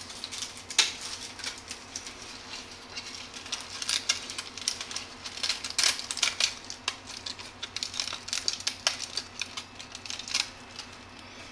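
Hard 3D-printed plastic parts being handled, clicking and snapping in quick irregular runs over a faint steady hum.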